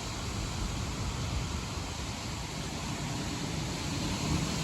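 Strong storm wind blowing: a steady rushing noise with an uneven low rumble, swelling slightly near the end.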